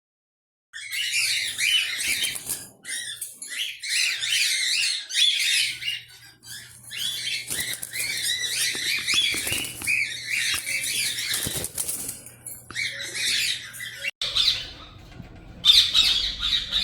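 A flock of parakeets (budgerigars and ringneck parakeets) chattering and squawking, starting under a second in as a dense, continuous high-pitched din.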